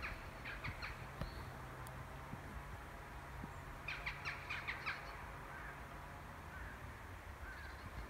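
Two bursts of a bird's harsh, rapid chattering calls, several notes in quick succession, at the start and again about four seconds in. A few faint small-bird chirps follow later, over a low steady hum.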